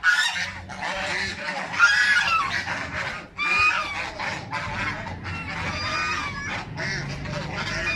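Geese honking again and again, a run of short harsh calls with brief gaps.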